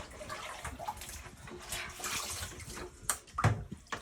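Soapy salt water sloshing and splashing as it is scooped out of a boat's bilge space under the floor, with a couple of sharp knocks a little after three seconds in.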